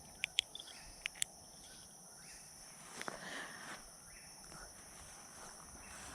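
Steady chorus of night insects such as crickets, a high even trill throughout. A few sharp clicks in the first second and a half, and a short rustle about three seconds in.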